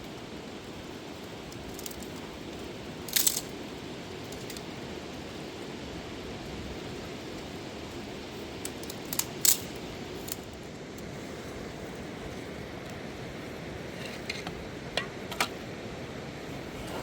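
Steady rushing noise with a few sharp clinks: one about three seconds in, a pair about nine seconds in, and another pair near the end.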